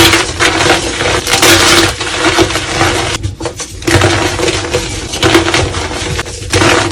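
Soft reformed gym chalk being crushed, a dense, dusty crunching and crumbling with many small cracks, broken by a short pause about three seconds in.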